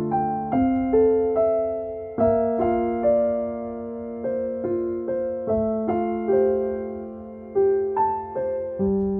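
Calm background piano music: slow single notes and chords struck every half second or so, each ringing and fading.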